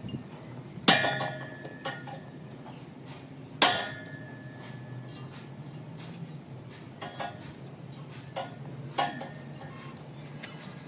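Metal struck against metal in a piston repair, each blow ringing briefly: two loud strikes about a second and nearly four seconds in, and lighter clinks about two, seven and nine seconds in, over a faint steady low hum.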